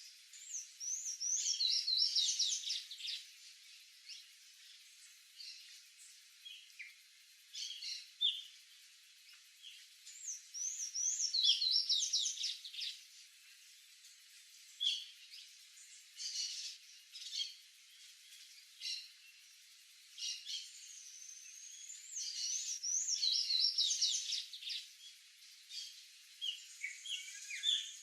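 Sayaca tanager singing: three high, squeaky phrases of rapidly up-and-down notes about ten seconds apart, with short scattered chirps between them.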